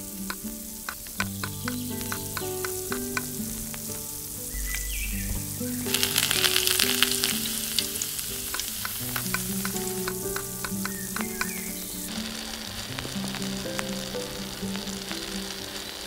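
Hot oil in a small steel pot sizzles, with a louder hiss starting about six seconds in as tomato paste goes into the oil and lasting several seconds. A tiny metal spoon clinks against the pot before and after.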